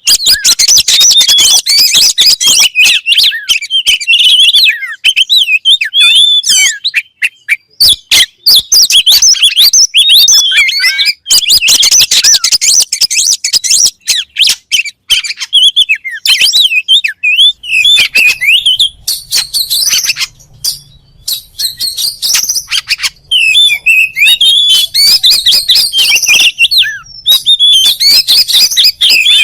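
Oriental magpie-robin singing loudly and almost without pause: a fast, varied run of high whistles, slurred phrases and sharp clicking notes.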